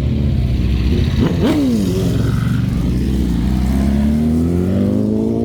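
Sports car engine running loudly, blipped once about a second and a half in with a quick rise and fall in pitch, then revving up steadily with its pitch climbing slowly through the second half.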